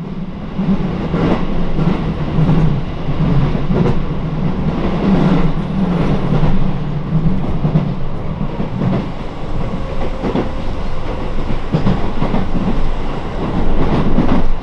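Train running noise heard from inside a moving JR Tokaido Line carriage: a loud steady rumble with clattering of wheels over rail joints. Another train passes close alongside on the next track, and the rumble swells sharply about a second in.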